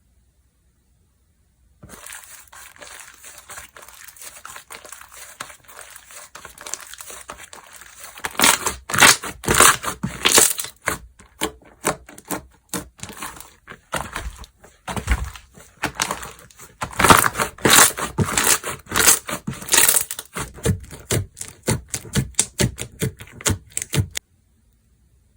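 Slime being squeezed, stretched and pressed by hand, giving a dense crackling and popping that starts about two seconds in, grows louder in two stretches and cuts off suddenly about a second before the end.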